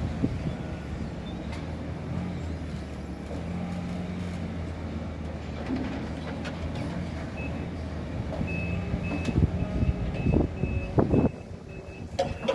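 Scania truck's diesel engine running. From about halfway a reversing alarm beeps steadily, and a few loud knocks come near the end.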